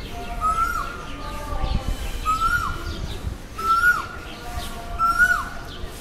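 A bird's repeated whistled call, one note about every second and a half, each held briefly and then dropping sharply. The notes come slightly faster and higher as it goes on, with faint high chirps from other birds above them.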